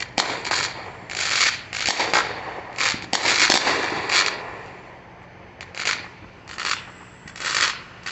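Fireworks going off in quick, irregular succession: a string of sharp bangs and crackling bursts, with a brief lull about five seconds in.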